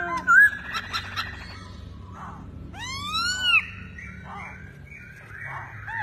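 Caged songbird singing: clear whistled notes that slide up and down, with a fast run of short chattering notes about a second in.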